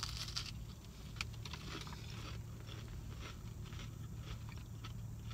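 A crunchy bite into a churro paired with a chicken tender, followed by chewing with scattered crackly crunches of the churro. A low steady hum sits underneath.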